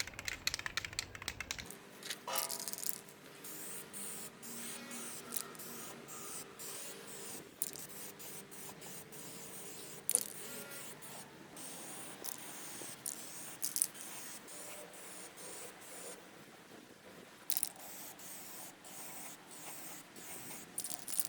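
Aerosol can of heat-resistant spray paint hissing in short, repeated bursts, with scattered light clicks and rattles between sprays.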